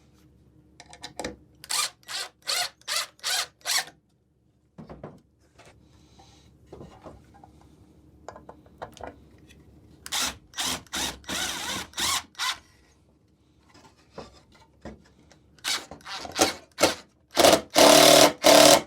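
Power drill driving screws into the wood of a birdhouse in three bouts of short trigger pulses, several a second, with quieter handling of the boards between bouts; the last bout is the loudest.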